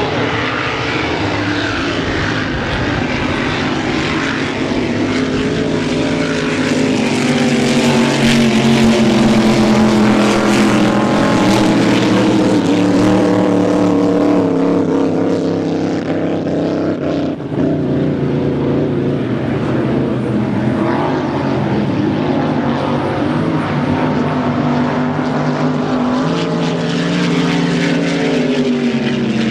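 Racing drag boat's engine running loud for the whole stretch, its pitch drifting slowly up and then down. It is loudest about a third of the way in.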